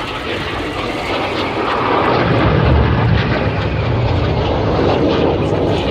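Jet engines of the Red Arrows' BAE Hawk T1 trainers: a steady jet noise with a deep rumble that grows louder about two seconds in as the aircraft come closer.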